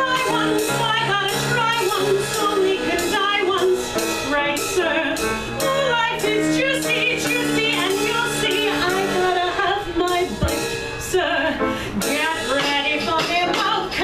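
A woman singing a show tune with live band accompaniment, drums and cymbals keeping a steady beat.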